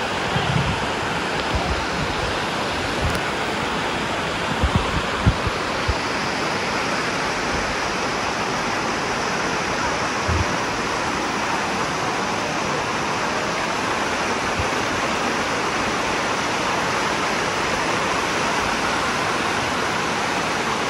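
Waterfall water rushing and splashing over rock cascades: a steady, unbroken noise of falling water. A few short low bumps come about five seconds in and again about ten seconds in.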